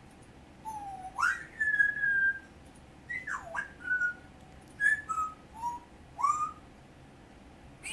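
African grey parrot whistling a run of clear notes, several sliding up or down in pitch and some held briefly, then falling silent about a second before the end.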